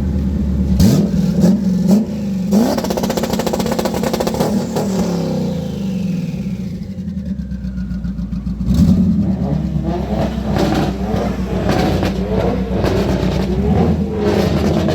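Loud car engine being revved, its pitch rising and falling several times over a steady running note.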